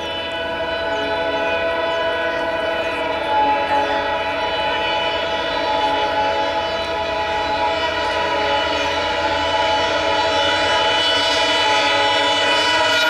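Indian Railways locomotive-hauled train approaching, a steady sound of many tones that slowly grows louder.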